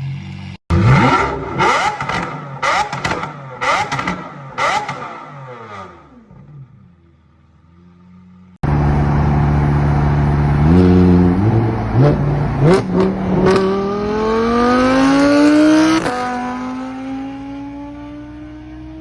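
Performance car engine blipped sharply about five times in quick succession. After a cut, a car engine pulls hard, its pitch stepping up and then climbing steadily before dropping suddenly at a gear change and rising again.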